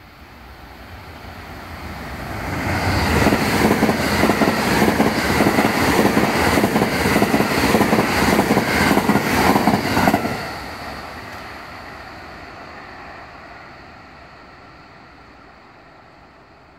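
JR West special rapid electric train passing at speed. It approaches with a rising rumble, then gives about seven seconds of loud wheel-on-rail noise with a regular run of clacks. The noise drops off sharply about ten seconds in as the last car goes by, then fades away.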